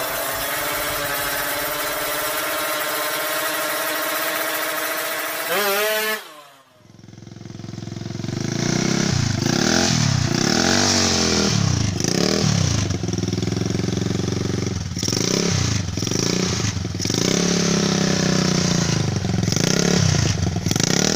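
A logo sound effect for about six seconds that cuts off suddenly, then a Honda GL-series single-cylinder motorcycle engine running and being revved, its pitch rising and falling about once a second. The engine has been brought back to life after sitting unused for four years.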